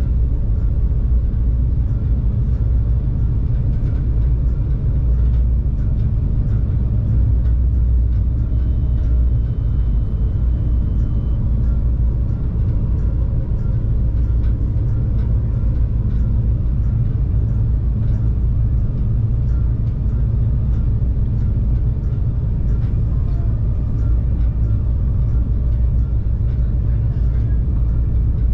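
Stadler GTW diesel-electric multiple unit running steadily at speed, heard from inside the passenger car: a constant low rumble of the diesel engine and wheels on rail.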